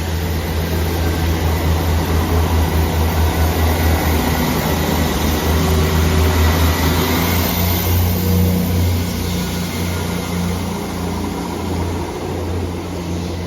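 Class 450 Desiro electric multiple unit moving along the platform: a steady low electric hum over a rolling rumble, growing louder to about seven seconds in and then fading away.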